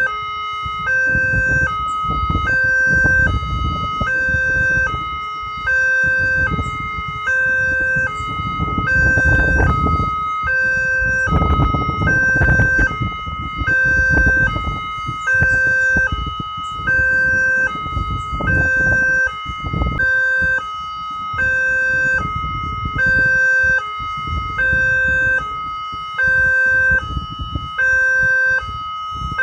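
Railway level-crossing warning siren from the loudspeaker of a Multec barrier, sounding a two-tone alternating wail that switches pitch about once a second and repeats steadily, warning that a train is coming. A low rumble rises and falls underneath, strongest around the middle.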